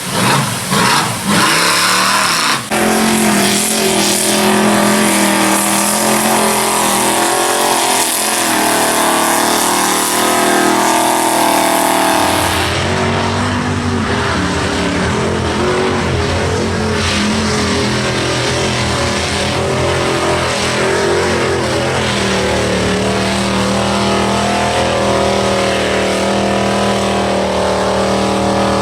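Chevy mud trucks' engines running hard at high revs while throttling through a mud pit, their pitch rising and falling. About twelve seconds in the sound cuts abruptly to a deeper, heavier engine note.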